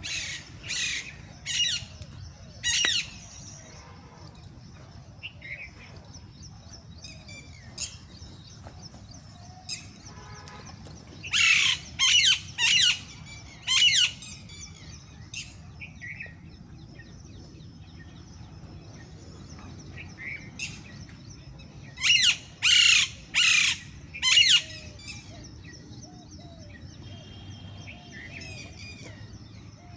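A bird calling in loud, harsh bouts of about four notes each, three bouts roughly ten seconds apart, with fainter chirps from other birds between them over a steady high-pitched whine.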